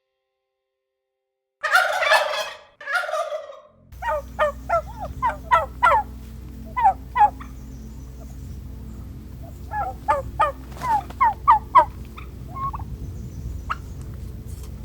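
Two harsh squawking calls, then a turkey gobbling in repeated quick warbling bursts over a steady low background hum.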